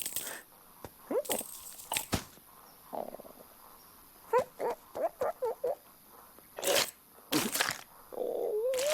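Cartoon sound effects: a few sharp knocks and swishes, then a quick run of short squeaky chirps rising and falling in pitch about halfway through, another pair of swishes, and a wavering warble near the end.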